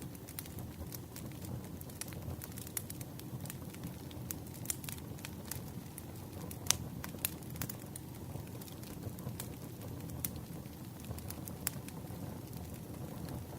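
Campfire crackling: a steady low rumble of burning wood with many small snaps and pops, one sharp pop standing out about halfway through.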